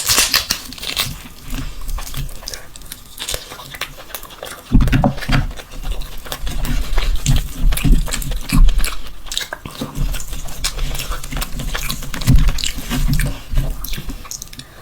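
A person chewing and biting into mutton mandi (spiced rice and mutton), giving a string of short, irregular mouth clicks. Low thuds join in about five seconds in.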